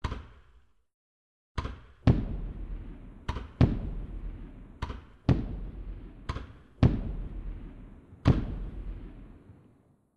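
Fireworks bursting: bangs mostly in pairs, a lighter crack followed under half a second later by a heavier bang, about every one and a half seconds, each dying away in a crackling tail over a second or so.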